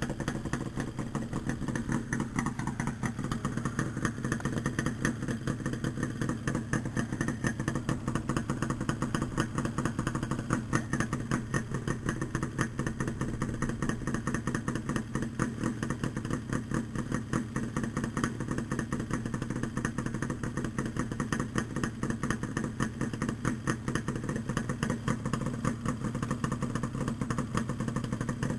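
Yamaha RD350LC two-stroke parallel twin running at a steady idle through Micron expansion chambers, a fast, even beat of exhaust pulses.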